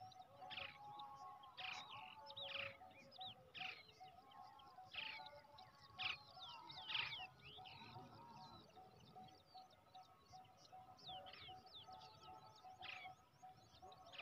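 A young brown shrike chirping faintly: a series of short, high chirps that sweep downward in pitch, coming about every half second to a second and thinning out about halfway through.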